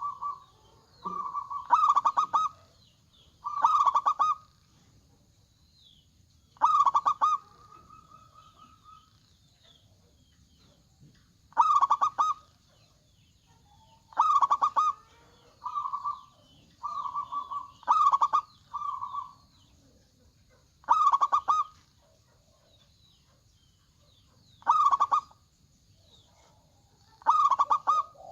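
Zebra doves (perkutut) cooing in short trilled phrases, about a dozen calls with pauses between them. Some calls are louder and brighter than others.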